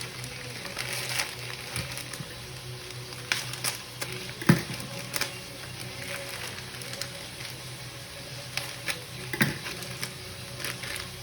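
Stir-fry vegetables sizzling in a wok with a dash of soy sauce and sesame oil, a steady frying hiss. A few sharp knocks and clatters come through it, the loudest about four and a half seconds in.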